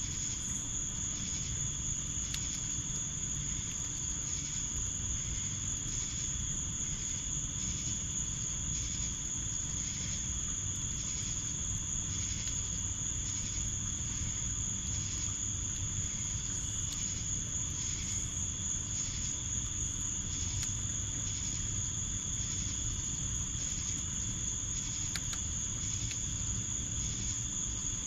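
Summer night insects singing: a continuous high-pitched trill with a slower pulsing chirp about once a second, over a steady low rushing background.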